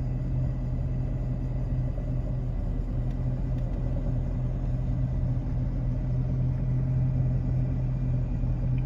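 Steady low hum of a car, heard from inside its cabin, with no change in pitch.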